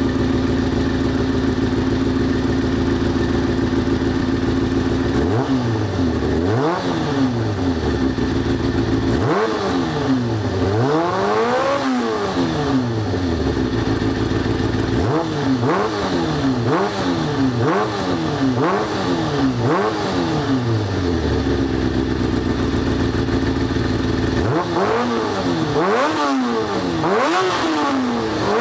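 Kawasaki ZX-6R G2's inline-four engine through a full Akrapovic exhaust system, idling steadily and then revved in groups of quick throttle blips. Each blip shoots the revs up and lets them fall straight back. The first pair comes about five seconds in and a longer run around ten seconds, then a fast string of about six blips, a return to idle, and a last group near the end.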